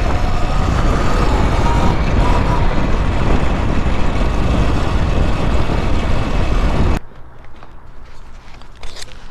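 Loud wind rush on the microphone of a moving electric bike, with the noise of riding. It cuts off suddenly about seven seconds in, leaving much quieter outdoor sound with a few faint clicks.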